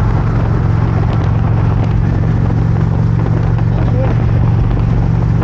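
Vehicle engine running at a steady cruise, one even low drone that holds its pitch, under a constant rush of road and wind noise.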